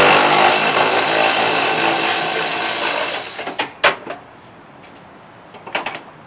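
Power drill or driver running steadily for about three seconds, backing out a bolt on a riding mower deck, then stopping. A single sharp knock follows, then a few faint clicks near the end.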